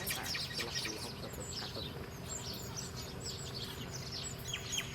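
Small birds twittering: many short, quick, downward-sliding chirps overlapping, busiest near the end, over a faint steady hum.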